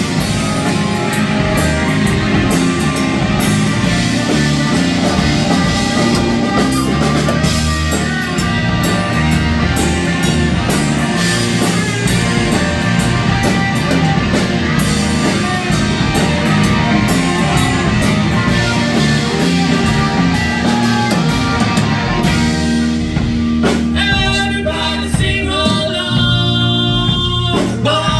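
Live rock band playing, with drums, guitar and singing. About 23 seconds in the full band drops back to a sparer passage.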